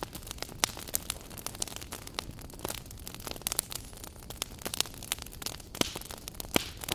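Wood fire burning in a fireplace, crackling with irregular sharp pops over a steady soft hiss of flames.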